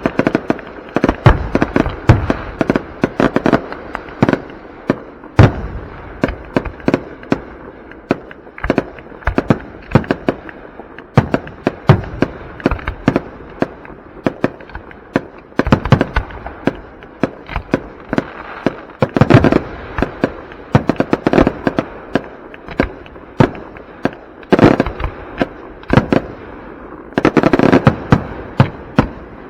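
Aerial fireworks going off in a rapid run of sharp booms and crackling, with denser volleys near the middle and near the end.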